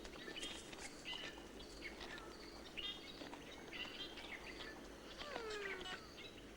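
Forest ambience of many short bird chirps and whistles, with one longer falling call about five seconds in.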